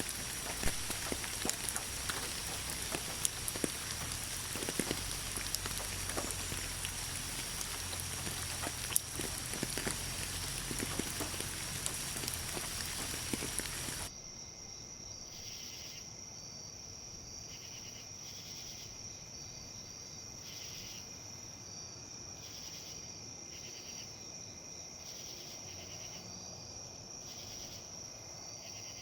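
Wind rustling leaves with light rain ticking, over a steady high insect trill; about halfway through it cuts off abruptly to a quieter bed of crickets chirping in regular pulses about once a second.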